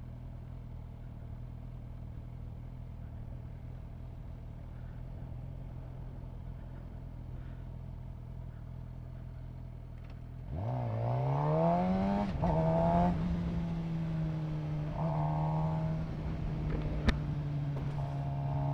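Suzuki GSX-R750 inline-four engine running at a low steady note. About ten seconds in it revs up quickly, drops in pitch at an upshift and holds a steady, higher note, then revs up again near the end.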